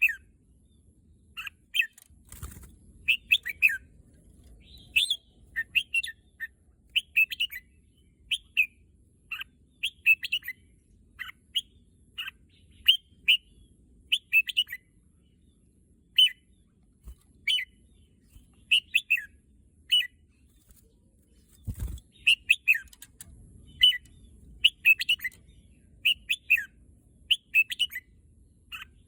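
Red-whiskered bulbul singing short, quick chirping phrases over and over with brief gaps between them. There is a low thump about two seconds in and another near the end.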